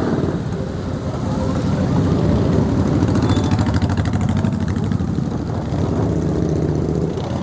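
Several motorcycle engines running together, a dense, steady engine sound.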